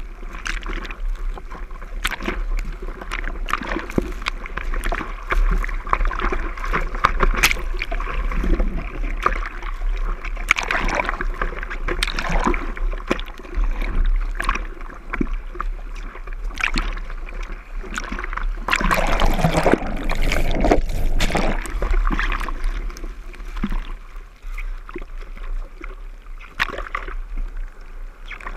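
Surfboard paddling: hands stroking through the water with repeated splashing and sloshing, over a steady low rumble.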